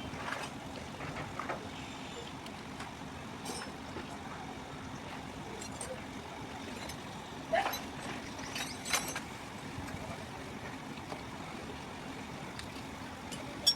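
Steady hum of vehicle traffic with scattered light metal clinks and a couple of louder knocks from tools at work on the engine.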